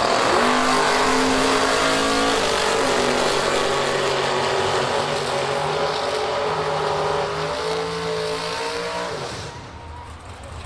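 Drag racing car launching and running down the strip: the engine note climbs and steps through gear changes, then dies away about nine seconds in.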